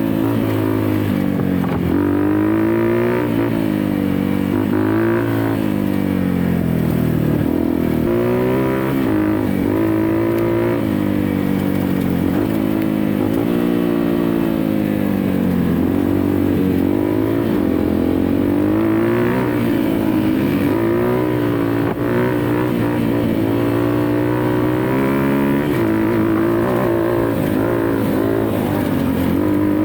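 Dirt bike engine running hard under constant throttle changes, its pitch rising and falling every second or two.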